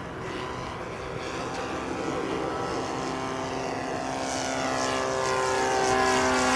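Engine and propeller of a radio-controlled scale Cessna 150 model in flight, a steady drone that grows steadily louder as the plane comes closer.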